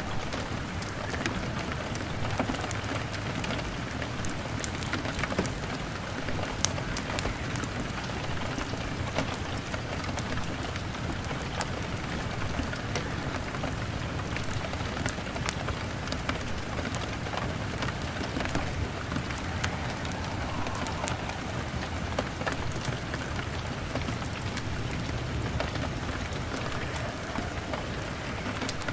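Steady rain pattering on a window, mixed with many scattered sharp crackles from a wood fire.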